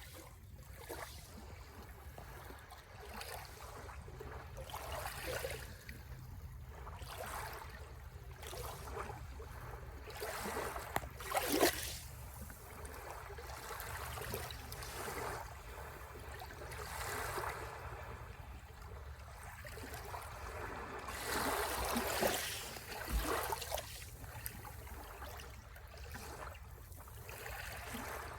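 Small sea waves washing onto the shore in irregular surges every few seconds, over a low steady rumble. The biggest washes come about twelve seconds in and again past the twenty-second mark.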